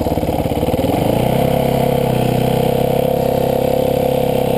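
Dirtbike engine running, its pitch rising about a second in as the revs pick up, then holding steady at the higher speed.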